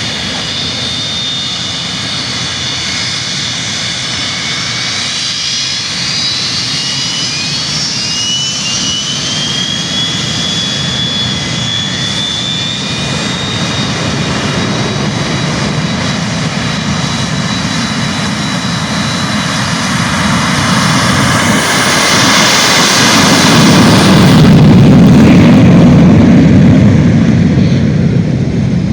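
Boeing jet airliner's engines spooling up for takeoff: high whines rising in pitch over the first dozen seconds, then a steady rush of engine noise that grows louder, loudest about twenty-five seconds in and easing a little near the end.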